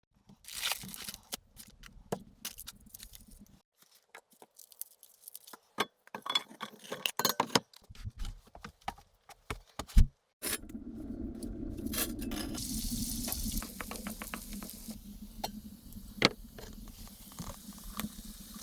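Clinks and knocks of cookware and utensils, with one loud knock about ten seconds in. A steady sizzle with scattered crackles follows.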